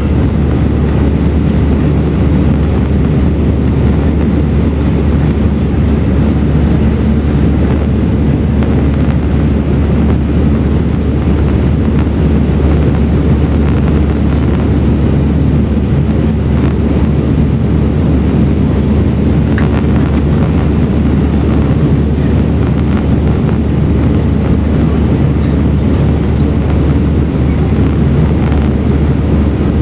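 Steady cabin noise inside an Airbus A319 airliner in flight: engine drone and rushing airflow, a heavy low rumble with a faint steady hum over it.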